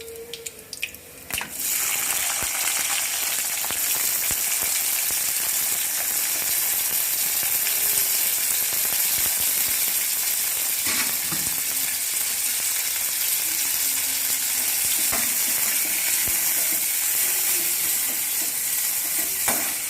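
Chopped onions dropped into hot oil in a kadai, breaking into a loud, steady sizzle about a second and a half in as they start to fry.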